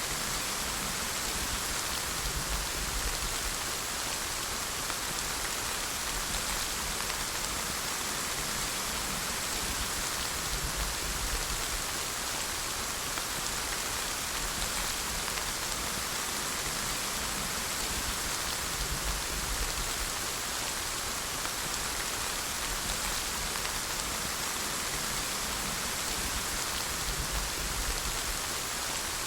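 Steady rain falling, an even hiss of drops on surfaces with a soft low rumble underneath.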